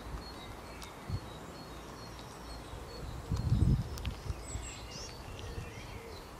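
Small birds chirping in the background: a short high note repeated a few times a second, with other calls later on. A brief low rumble comes a little past the middle.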